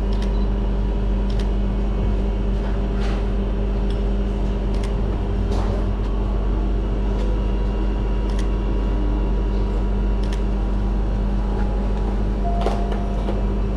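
Steady hum of commercial kitchen machinery, with a deep rumble and several fixed tones. A few short sharp clicks come every second or two over it.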